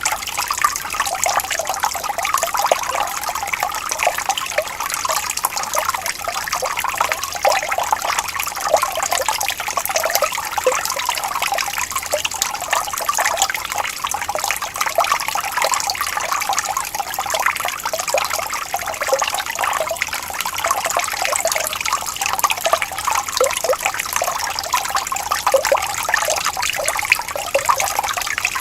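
Shallow stream of water trickling and burbling steadily over stones, with no pauses or changes.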